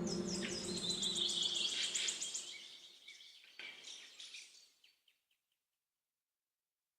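Birds chirping: a fast, high trill of repeated chirps for the first two seconds or so, then scattered calls that fade out about five seconds in.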